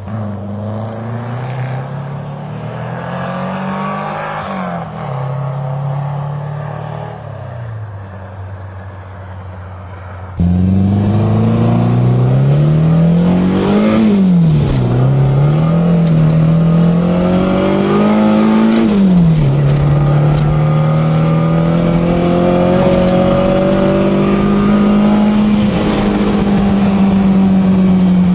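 Saab Sonett III's V4 engine running under way, its pitch climbing and then dropping sharply several times as it revs up and falls back, later holding a fairly steady note. About ten seconds in the sound suddenly becomes much louder and fuller.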